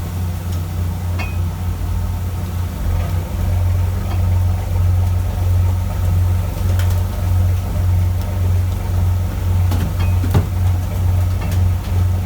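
Fishing boat's engine running steadily: a loud low drone with a slight even pulse, and a few faint clicks and knocks near the end.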